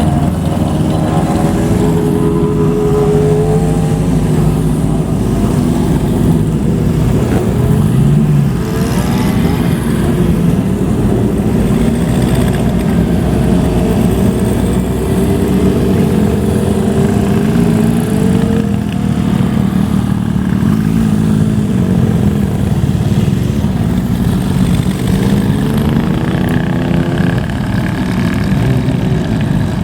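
Motorcycle engines and exhausts as bikes ride off one after another, several of them revving up in turn, with the engine pitch rising and falling about every few seconds.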